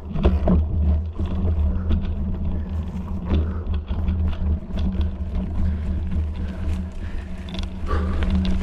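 A steady low rumble with a constant low hum, and scattered clicks and knocks throughout, one louder knock about a second in.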